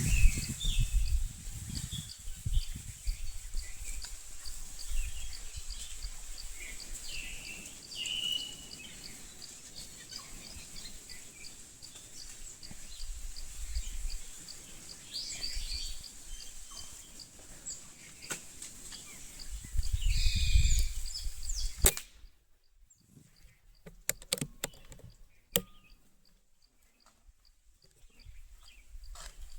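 Small birds chirping in short scattered calls over low wind and handling rumble. Near the end the sound drops suddenly to a quieter stretch with a few sharp clicks.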